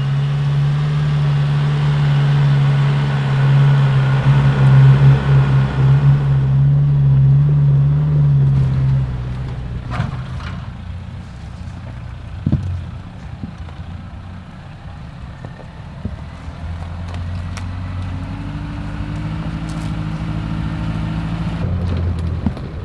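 A four-wheel-drive's engine pulling steadily up a steep dirt hill climb. It is loud and steady for the first several seconds, then eases off and goes quieter, with a few knocks from the track, before building again near the end.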